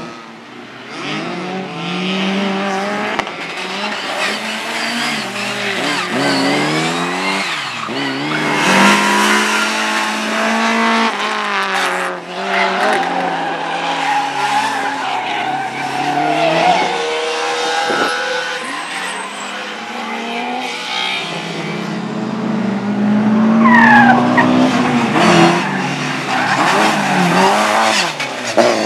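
Rally car engines revving hard and dropping in pitch through repeated gear changes, with tyre squeal as the cars slide through corners.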